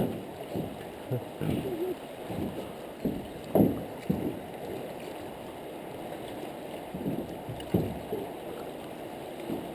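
Steady low rushing of river water around a boat, with a few short thumps, one about three and a half seconds in and another near eight seconds.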